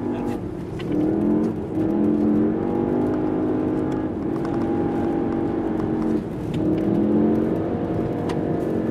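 VW Golf R's turbocharged four-cylinder engine, heard from inside the cabin, pulling hard while being driven on snow and ice. The engine note holds steady and then steps down and back up several times as the throttle is lifted and reapplied.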